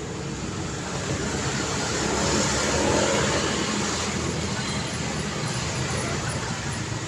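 Road traffic: vehicles driving past on a busy street, as a steady wash of engine and tyre noise. It swells as one vehicle passes close, loudest about three seconds in, then eases off.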